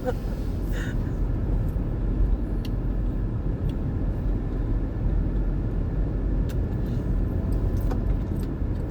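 Steady low rumble of a pickup truck driving, engine and road noise heard from inside the cab, with a few faint clicks.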